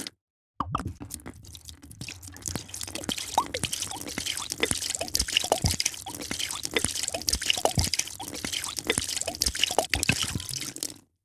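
A drink being poured, the liquid trickling and dripping with many small plinks and bubbly blips. It starts about half a second in and cuts off abruptly near the end.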